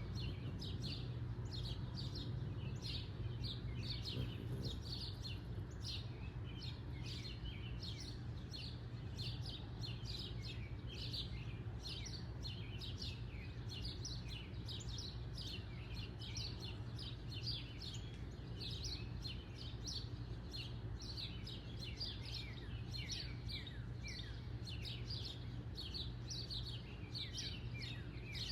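Small birds chirping continuously, many quick short falling chirps overlapping, over a steady low hum.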